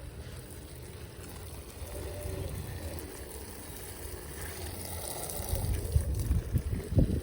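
Low rumble of wind buffeting the microphone, gusting harder near the end.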